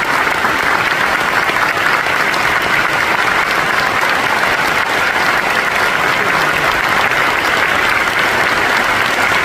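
Large concert audience applauding: dense, continuous clapping that holds steady without a break.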